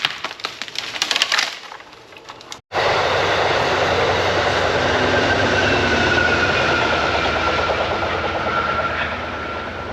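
A train passing on nearby tracks: a loud steady rush of wheels on rail with a faint high tone that slides slowly down in pitch, easing off near the end. Before it, a few seconds of sharp clicks and knocks.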